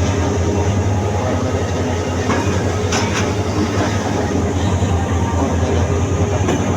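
Train running, heard close: a steady low drone under a rough rumble, with a few sharp clicks.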